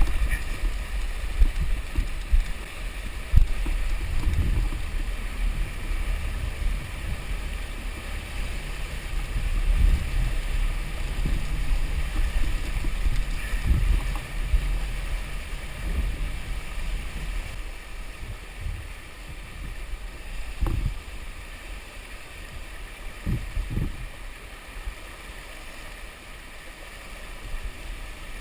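Rushing river water with wind gusting on the microphone and a few dull knocks, fading slowly toward the end.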